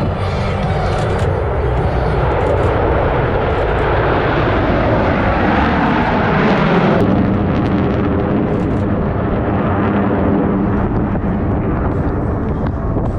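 Jet engine noise from a Blue Angels F/A-18 making a pass, loud and continuous. The pitch falls as it goes by about seven seconds in, and then the sound turns duller as the high end fades.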